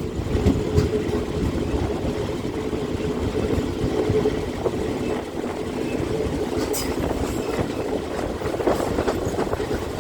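Diesel passenger train hauled by an Alsthom diesel-electric locomotive moving on the track: a steady engine hum over a low rumble, with a few wheel clicks near the end.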